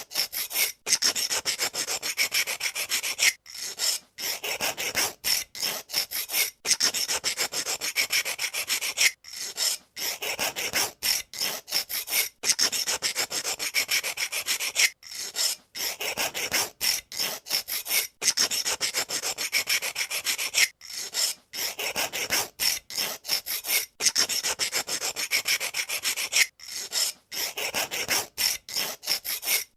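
Pencil sharpener blade shaving a wooden pencil: rapid, continuous scraping strokes, broken by brief pauses every second or two.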